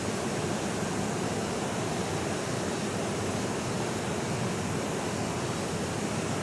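Waterfall: water falling and rushing in a steady, unbroken roar with no change.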